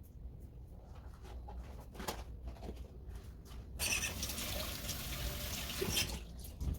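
Water running in a gush for about two seconds, starting and stopping suddenly, after a few light clicks and knocks.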